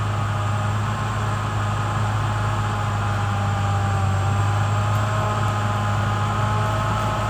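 Caterpillar D6R XL bulldozer's diesel engine running steadily under work, a deep even hum with a fainter whine above it that wavers slightly in pitch.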